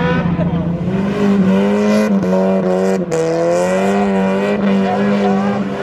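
Infiniti G35's V6 engine running hard at steady high revs on track, its pitch wavering slightly, with a brief break about three seconds in.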